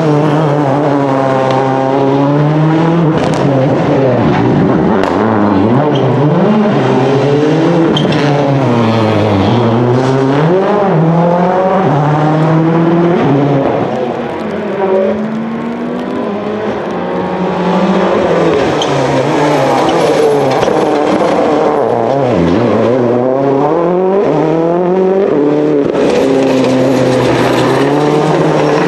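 Rally car engines revving hard, the pitch climbing and dropping over and over as the drivers accelerate, shift and lift off.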